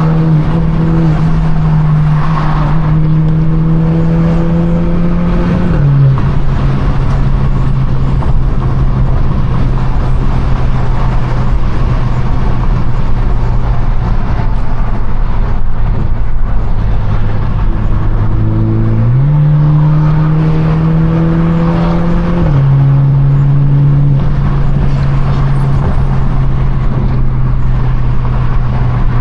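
Straight-piped BMW 428i's turbocharged 2.0-litre four-cylinder exhaust under load, loud: the drone climbs in pitch as the car accelerates, drops with an upshift about six seconds in, holds a steady pitch while cruising, then climbs again and drops with another upshift a few seconds later.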